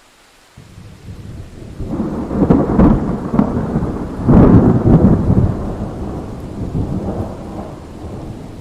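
Thunder rolling over steady rain: the rumble breaks in under a second in, swells to two loud crackling peaks, then slowly dies away into the rain's hiss.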